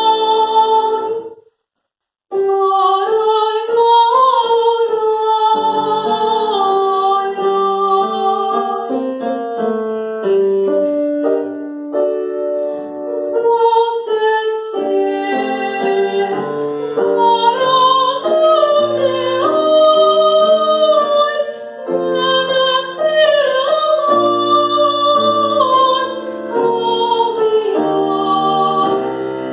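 A woman singing in classical operatic style with piano accompaniment. The sound drops out to silence for under a second about two seconds in, then the singing and piano resume.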